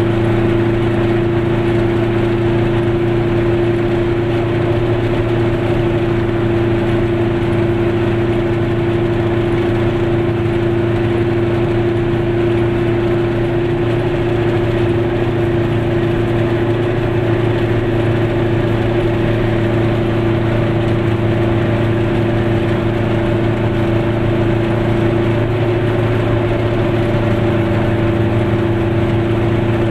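Goggomobil's small two-stroke engine running steadily at cruising speed, with a constant buzzing drone and tyre noise, heard from inside the car.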